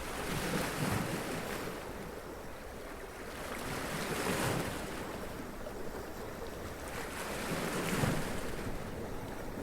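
Sea waves washing up onto rocks and splashing, in three surges a few seconds apart.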